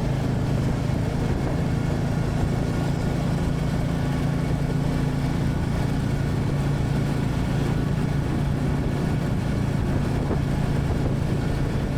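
Royal Enfield Classic 350's single-cylinder engine running at a steady, unchanging pitch.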